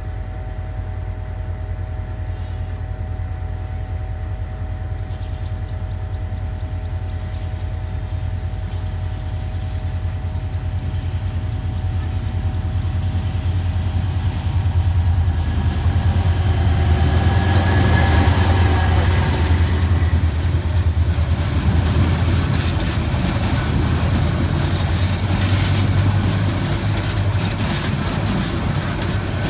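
Diesel locomotive of an intercity express train approaching and running through: a low engine drone that grows steadily louder as it nears. It is loudest about two-thirds of the way in, then stays loud as the coaches roll past on the rails.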